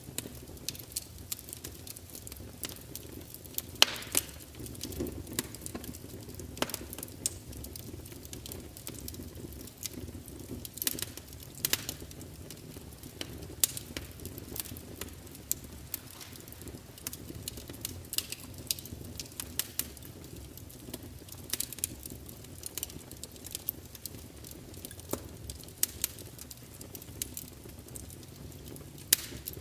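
Burning wood fire crackling: irregular sharp pops and snaps, several a second, over a low steady rustle of the flames. One louder pop comes about four seconds in.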